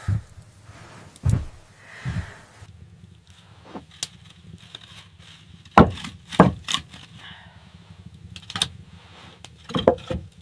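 A series of irregular, sharp wooden knocks and thuds, about nine in all, with two close pairs near the middle and a cluster near the end, over a faint steady hum.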